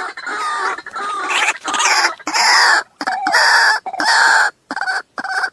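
Waterhen calling: a run of loud, harsh, repeated calls, each about half a second to a second long, with short breaks between them.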